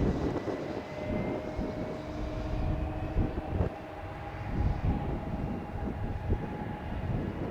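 Jet airliner engines whining, the whine slowly rising in pitch, over a low rumble, with wind buffeting the microphone.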